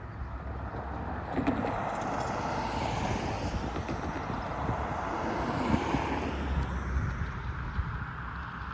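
A road vehicle passing by: tyre and engine noise swells from about a second in, peaks midway and fades away near the end, over a low rumble of wind on the microphone.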